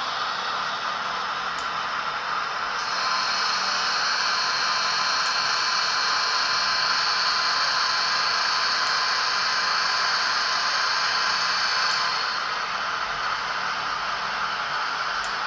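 Märklin H0 model train running slowly along the track with a steady whirring hiss. It grows louder about three seconds in and drops back near the end.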